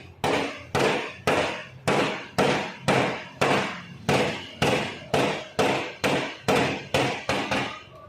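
A hand tool works down the thick spots of dried body filler on a car panel in quick, even strokes, about two a second. Each stroke starts sharply and fades away.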